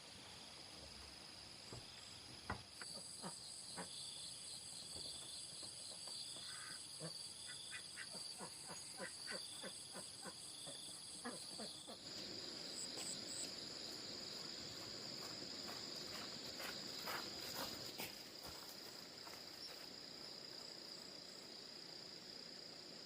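Insects trilling in a steady high-pitched chorus, its pitch and pattern changing abruptly about halfway through, with scattered light clicks and taps over the first three quarters.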